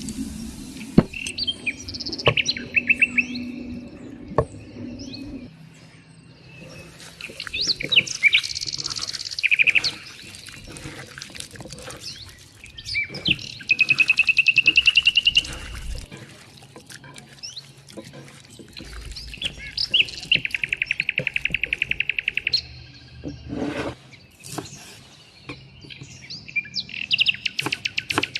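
Wild songbirds singing, with several long, rapid trills and shorter chirps, one trill rising in pitch midway. Scattered sharp clicks and knocks sound under the birdsong.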